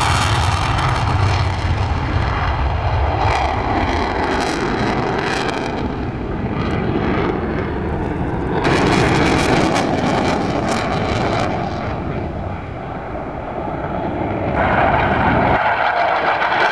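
Fixed-wing aircraft engine noise, loud and continuous, with abrupt shifts in tone about halfway through and near the end.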